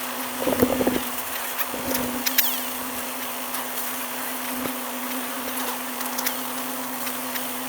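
Dirt bike engine idling steadily under a constant hiss, with a few knocks and rattles in the first two seconds.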